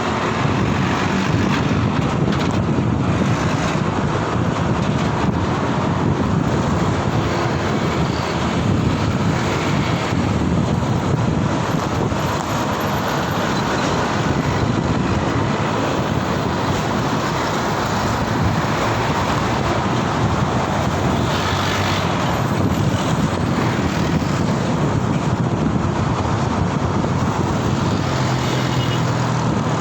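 Steady road traffic noise and air rush heard while riding along city streets, with no pauses or single standout event.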